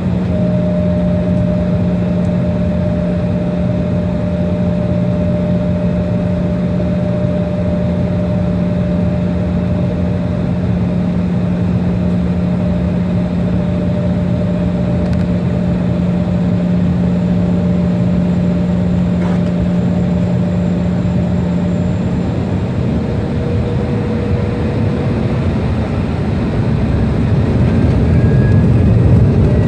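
Jet airliner engines running with a steady hum and whine over a broad rush of noise, the rumble growing louder and deeper near the end.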